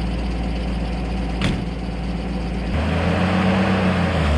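Toyota FJ45 Land Cruiser's straight-six petrol engine idling just after starting, then given a short blip of throttle near the end that rises and falls back. A sharp click about a second and a half in.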